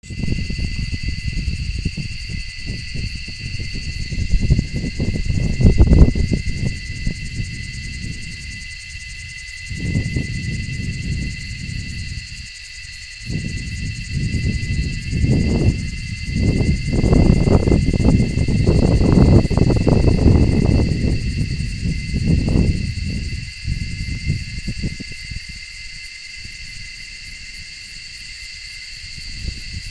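A steady chorus of insects, several high shrill tones held without a break. Under it runs a low rumble that comes and goes in swells, loudest about six seconds in and again about two-thirds of the way through.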